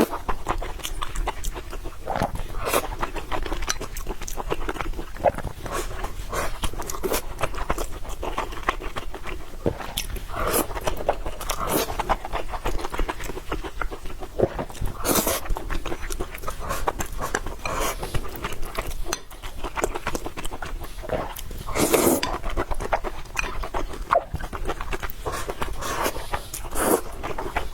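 Close-miked eating: steady wet chewing and lip-smacking, with a few louder, longer bursts of mouth noise.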